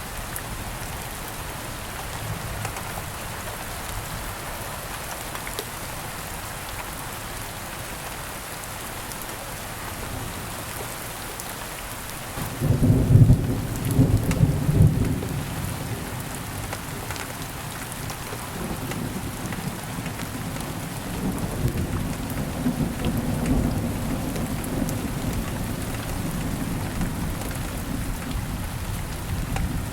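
Steady rain hissing, with a peal of thunder breaking in about twelve seconds in: loudest for a few seconds, then rumbling on more quietly.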